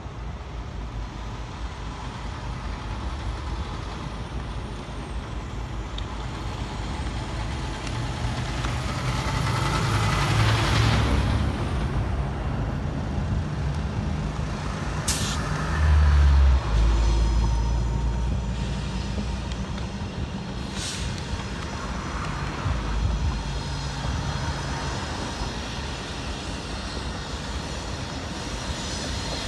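Norfolk Southern diesel freight locomotives approaching under power, a low engine rumble growing louder as they come on, with two brief sharp sounds about six seconds apart.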